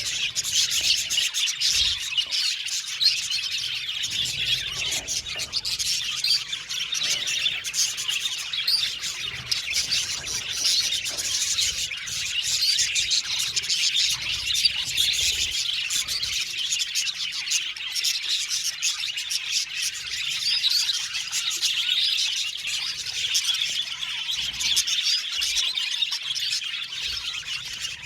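A flock of budgerigars chattering together, many high chirps and warbles overlapping without a break.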